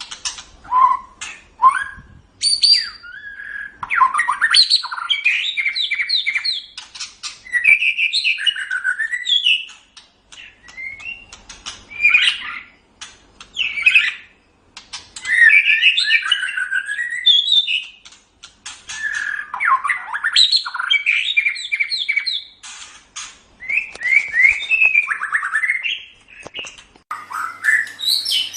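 White-rumped shama singing: a varied, rapid song of whistled glides, trills and harsh chattering notes, in phrases of a few seconds with short pauses between them.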